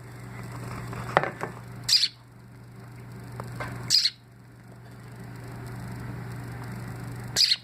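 A baby bird chirping: three short, high-pitched chirps, about two seconds apart and the last after a longer pause, over a steady low hum.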